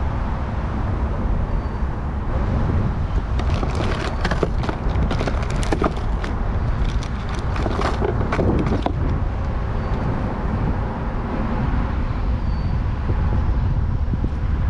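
Steady low rumble of wind on the microphone, with a run of sharp clicks and rattles in the middle.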